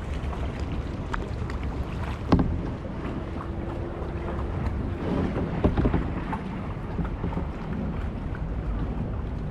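Kayak paddling with wind rumbling on the GoPro's microphone: a sharp knock a little over two seconds in and a cluster of paddle splashes and knocks around five to six seconds in.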